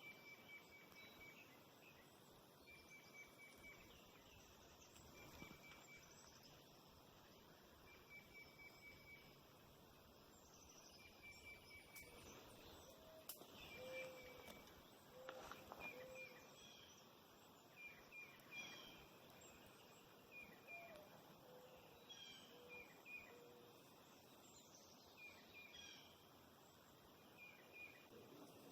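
Faint outdoor wildlife ambience: short high chirps repeating about every second and a half to two seconds, with a few lower call notes in the middle and a couple of brief clicks.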